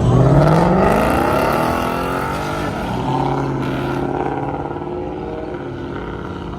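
Car engine at full throttle accelerating hard, its pitch climbing for the first couple of seconds. It then settles into a steadier note that slowly fades as the car pulls away.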